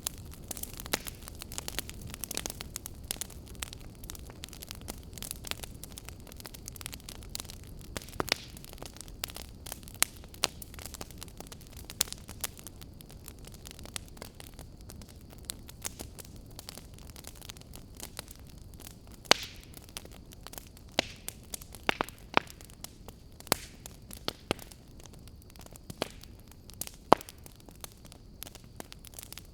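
Wood fire crackling and popping irregularly over a low steady hiss, with a handful of louder sharp pops in the second half.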